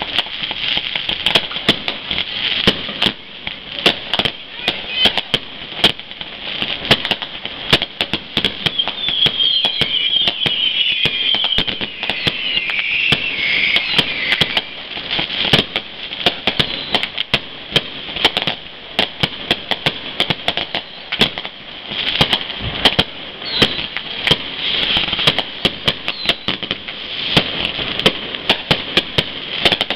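Fireworks display: a dense, continuous string of bangs and pops in quick succession, with louder reports standing out every second or two over a steady crackling hiss.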